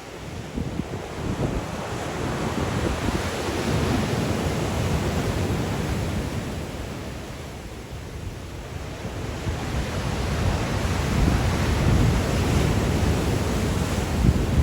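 Black Sea surf breaking on the shore in strong wind, with wind buffeting the microphone as a low rumble. The surge swells, eases off around the middle, then builds again near the end.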